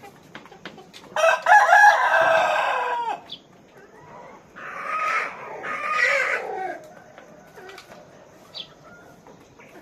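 A rooster crows once, a loud call lasting about two seconds, followed a couple of seconds later by two shorter chicken calls, with faint clucking between.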